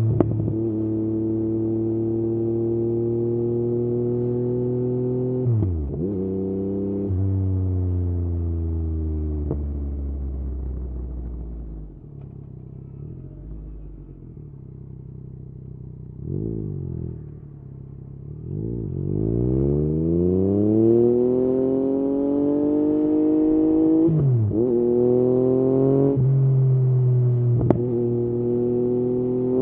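Yamaha MT-09 three-cylinder engine through an Akrapovič exhaust while riding. It holds a steady speed, then the pitch falls as the bike slows to a low idle-like drone. After a short blip it accelerates hard, the pitch rising steeply, with quick gear changes about two-thirds of the way through and again near the end.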